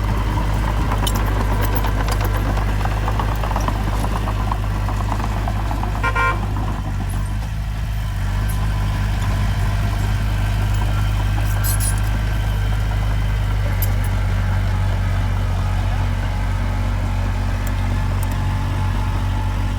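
Heavy diesel earthmoving machinery (bulldozer or dump truck) running steadily with a low drone. A short beep comes about six seconds in.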